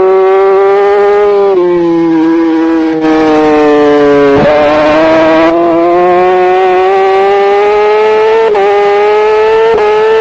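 Racing superbike engine at high revs, heard from on the bike. Its pitch climbs steadily, drops sharply at gear changes about one and a half and four and a half seconds in, and dips briefly twice near the end.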